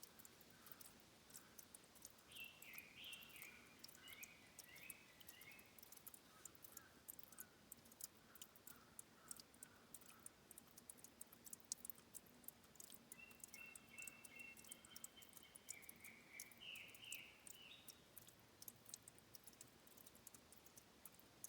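Faint ambience of water dripping and trickling at a stream's source, a dense run of tiny clicks, while a songbird sings two short phrases of stepped notes, a few seconds in and again near the end.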